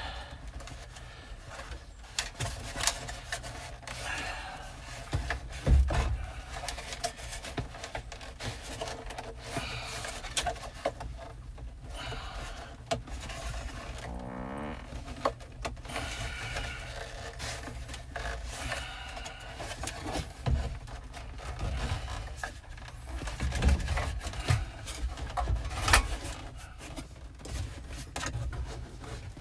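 Hands working flexible heater/AC duct hose into place under a truck's dashboard: irregular scraping, rustling, clicks and knocks, with a few louder thumps about six seconds in and again in the last third.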